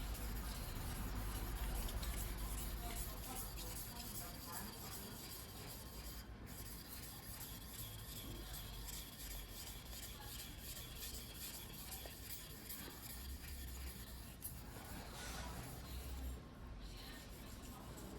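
Choyo white #2 steel yanagiba blade being hand-sharpened on a whetstone, the steel rubbing back and forth against the stone in a steady grind.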